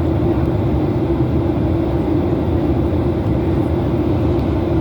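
Steady jet engine and airflow noise heard inside a Boeing airliner's passenger cabin during the descent to land, with a constant low hum under an even rush.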